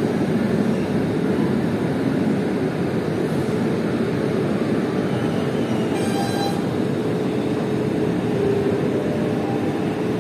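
KA Gumarang passenger train at the station platform, giving a steady low rumble with a faint constant hum. A short high tone sounds about six seconds in.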